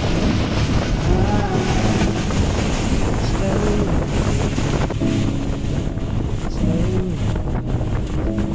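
Speedboat under way, its engine running steadily under heavy wind buffeting the microphone, with water rushing past the hull.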